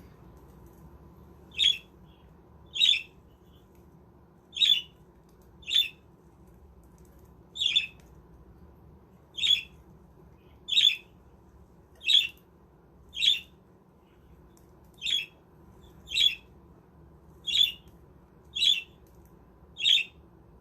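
Budgerigar giving short, sharp squawks, one at a time, about fourteen in a row at an even pace of one every second or so.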